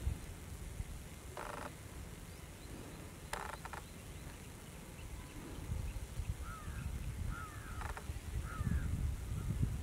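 Birds calling: three short harsh calls spread through, and a few quick chirps in the second half, over a steady low rumble.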